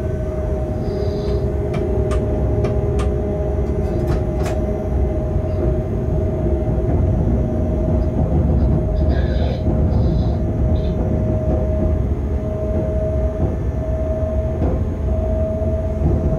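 Freight train heard from the locomotive cab while running along the track: a steady low rumble with a constant humming tone over it. A series of sharp clicks comes in the first few seconds, and a few short high-pitched squeaks around the middle.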